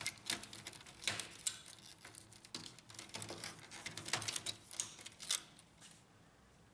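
Irregular small plastic clicks and taps as cable connectors are pushed into their sockets inside an HP LaserJet P1102 laser printer, easing off after about five seconds.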